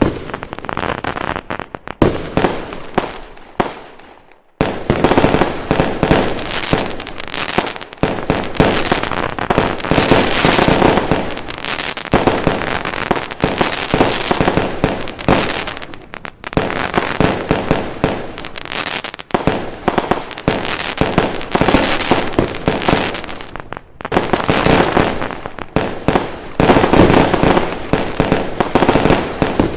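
Fireworks going off in dense, rapid volleys of bangs and crackling, with a brief lull about four seconds in.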